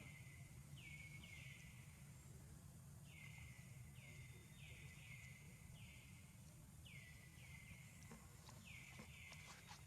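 Faint repeated short calls from a bird, each dropping in pitch and then holding, about a dozen at irregular spacing, over a low steady background rumble. A few faint clicks come near the end.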